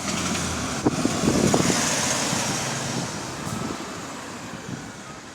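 A road vehicle driving past: its engine and tyre noise swells about a second in and then fades away.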